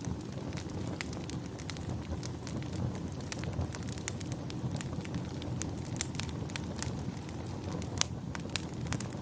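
Wood fire crackling, with frequent sharp, irregular pops over a steady low rumble; one pop near the end is louder than the rest.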